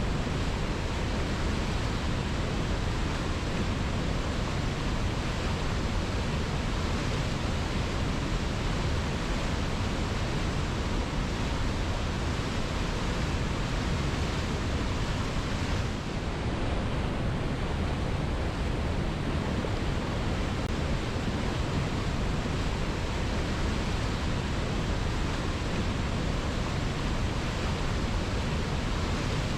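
Waterfall rushing steadily over rocks: a dense, even roar of falling water with no breaks.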